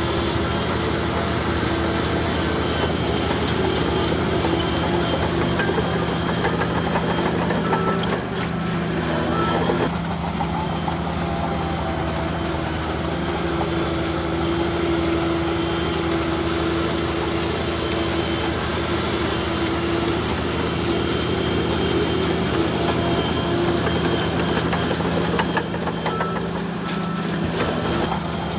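Bulldozer's diesel engine running steadily, its note shifting briefly about a third of the way in and again near the end.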